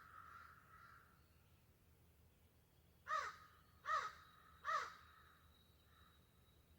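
A bird giving three loud, harsh calls in quick succession, a little under a second apart.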